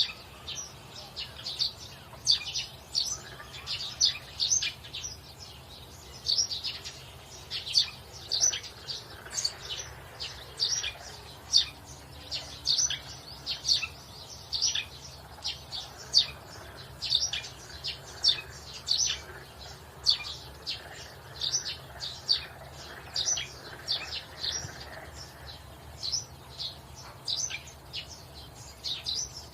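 Small birds chirping, many short, high chirps a second going on steadily, over a faint low hum.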